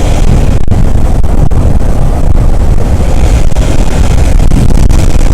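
Steady, loud rush of wind on the microphone with road noise from a motorcycle being ridden.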